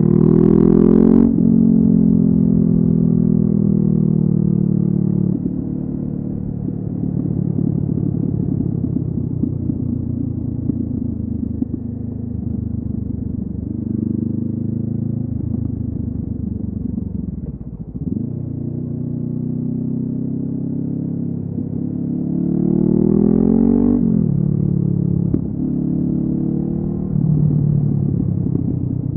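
Honda CB500F's parallel-twin engine breathing through a LeoVince aftermarket exhaust while the bike is ridden. It revs up and drops back as it shifts about a second in, runs steadily, dips in engine speed around the middle, then revs up again and drops back near the end.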